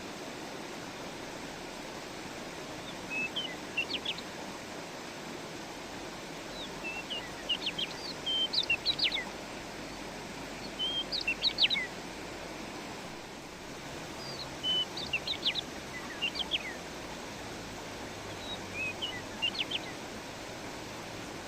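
A songbird singing short bursts of quick, high chirping notes, five phrases a few seconds apart, over the steady rush of flowing stream water.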